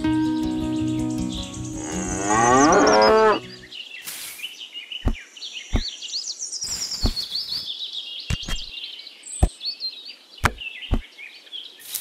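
A cow moos once, long and loud, about two seconds in, over background music that stops just after. Then birds chirp steadily, with a handful of sharp taps as wooden craft sticks are set into sand.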